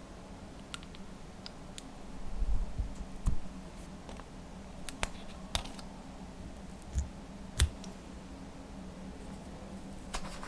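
Slime being handled and pressed by hand: scattered small clicks and pops, with a few louder soft thuds about two and a half seconds in and again past the middle, over a faint steady hum.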